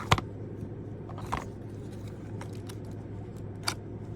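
Small items from an unboxing being handled: a sharp click just after the start, then a couple of softer clicks and light rattles, over a steady low hum.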